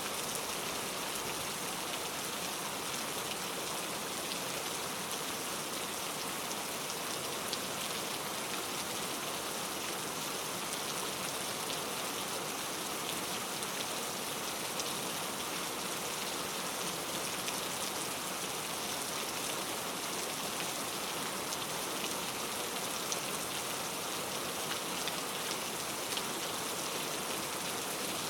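Steady rain falling, a constant even hiss with scattered individual drops ticking through it.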